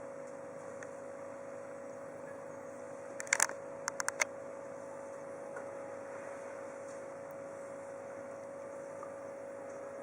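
A steady electrical hum with one constant mid-pitched tone. A little over three seconds in, a quick cluster of sharp clicks: two loud ones, then four more within about half a second.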